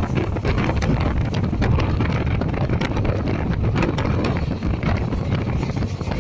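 Rushing wind buffeting the microphone over the steady rumble of a moving train, with many quick rattling clicks from the running carriage.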